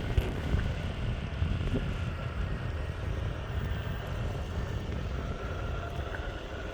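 Meepo Hurricane electric skateboard rolling on pavement at speed, a steady rumble and hiss of wheels on the road and air rushing past.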